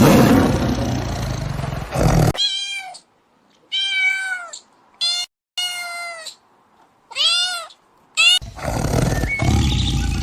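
A domestic cat meowing about six times in short separate high-pitched calls that rise and fall. A loud rough roar-like noise comes before them and returns near the end, with abrupt cuts between the clips.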